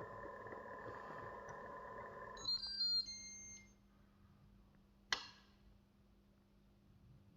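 A steady electronic tone that stops about two and a half seconds in, then a short set of high electronic beeps, the loudest sound, then a single sharp click about five seconds in.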